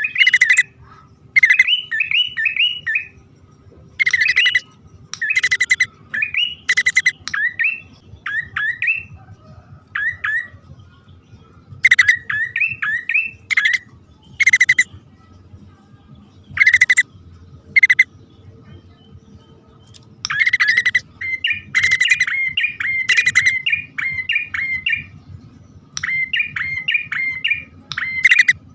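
Prenjak (prinia) birds, male and female, calling back and forth. Loud harsh chattering bursts alternate with quick runs of rising-and-falling chirps, in phrases repeated every second or two.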